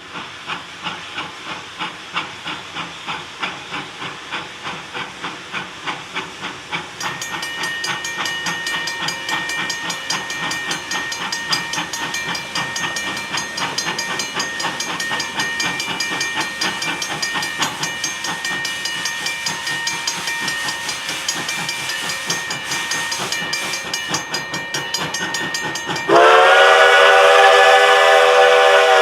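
Steam locomotive working a departing train, its exhaust chuffing about twice a second with steam hissing. About a quarter of the way in, a steady ringing bell joins. Near the end the steam whistle blows one loud chord for about three seconds.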